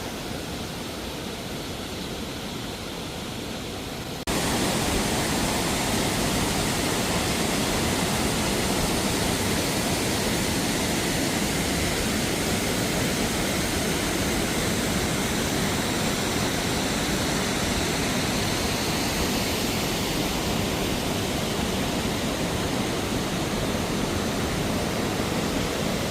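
A steady rushing noise that jumps abruptly louder about four seconds in and then holds steady.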